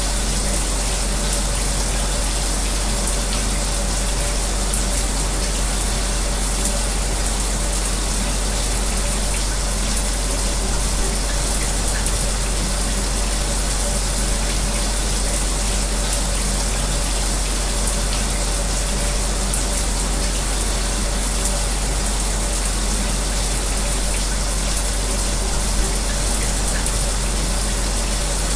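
Shower spray running steadily, mixed with the steady hum of an electric fan; the sound does not change.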